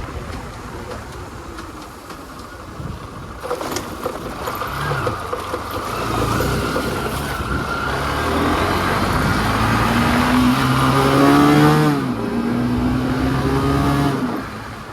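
Motorcycle engine accelerating hard with rushing wind noise: its pitch climbs, drops suddenly at a gear change near the end, climbs again, then falls away.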